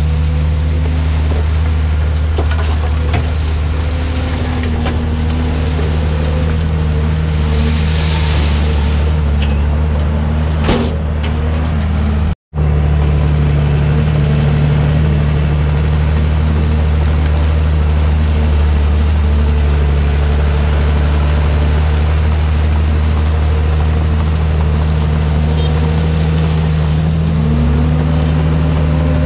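Komatsu D51PX bulldozer's diesel engine running steadily under load, with a couple of faint knocks. The sound cuts out completely for a moment about twelve seconds in.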